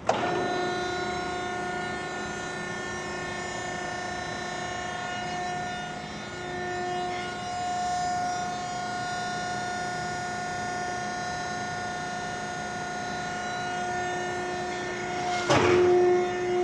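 Hydraulic pump and electric motor of a Selco V15 vertical cardboard baler running with a steady whine while the ram travels, starting suddenly; a loud clunk sounds about fifteen seconds in.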